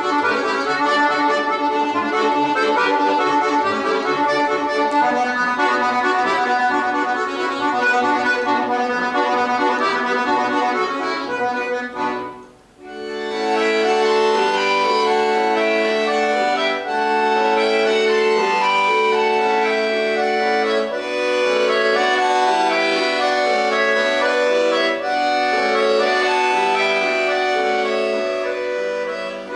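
Accordion playing a solo piece in sustained full chords. It stops for a moment about twelve seconds in, then goes on with shorter, more detached chords.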